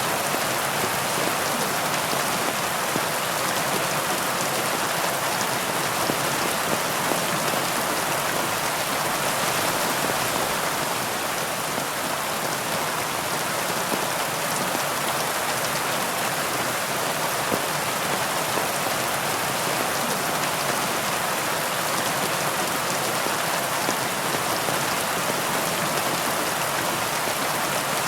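Heavy rain falling steadily, a dense even hiss of drops with faint individual patters through it.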